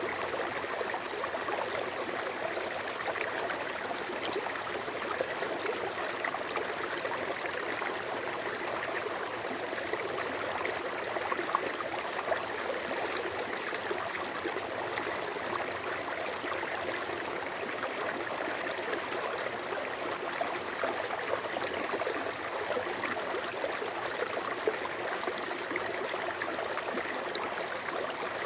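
A stream of running water babbling steadily, with a continuous rushing hiss and small irregular splashes.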